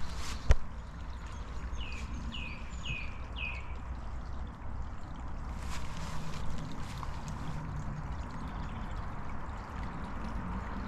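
Water running and trickling steadily. A bird calls four quick falling chirps about two seconds in, and there is one sharp knock about half a second in.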